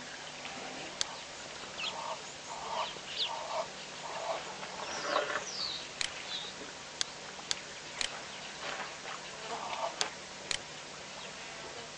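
Birds calling: a run of short clucking calls repeated about every half second, with a few higher chirps. Several sharp clicks come at intervals.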